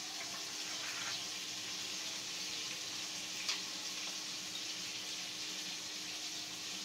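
Chopped onions sizzling in hot oil in a kadai, a steady hiss, with a single click about three and a half seconds in.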